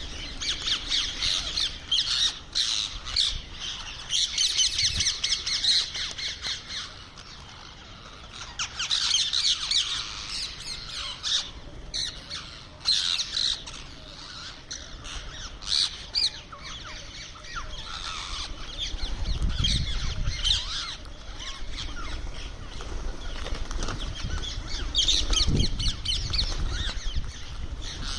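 Indian ringneck parrot giving bursts of short, high chirping squawks, over and over, with sharp clicks and rustling between the calls.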